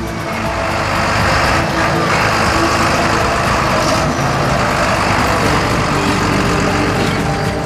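Diesel engines of heavy farm machinery running steadily, a dense machine noise that grows louder about a second in.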